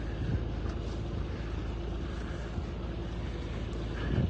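A boat's engine running steadily at an even pitch, with a light rush of wind and water noise over it.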